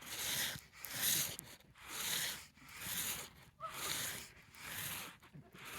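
Arms and legs sweeping back and forth through snow to make a snow angel: a rhythmic swishing, about one sweep a second.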